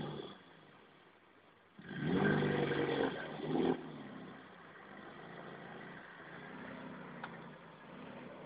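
Skoda 120's rear-mounted four-cylinder engine revved loudly for about two seconds, starting about two seconds in, then running more quietly as the car pulls off slowly.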